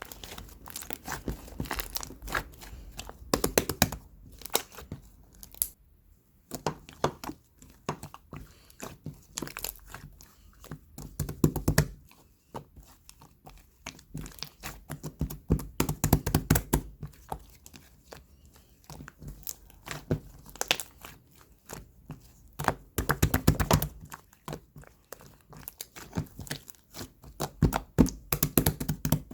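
Bursts of crinkling and tearing rustles, each a second or two long, separated by short quieter gaps.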